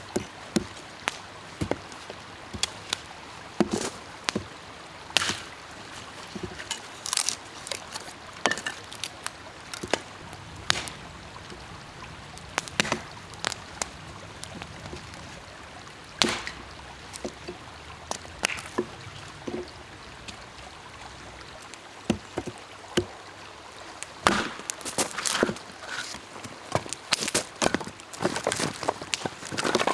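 Irregular sharp knocks and taps, several per few seconds and coming in a quick flurry near the end, over a steady faint hiss.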